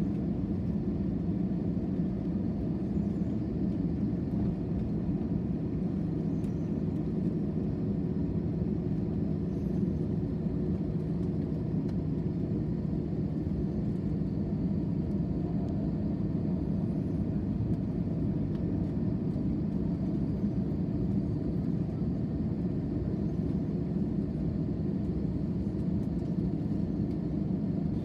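Steady low rumble inside a jet airliner's cabin: engine and air noise, unchanging in level.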